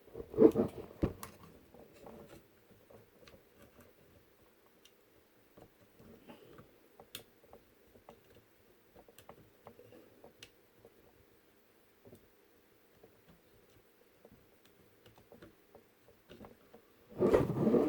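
Faint, scattered clicks and light metal taps of small nuts and washers being handled and threaded onto the motor's mounting bolts by hand.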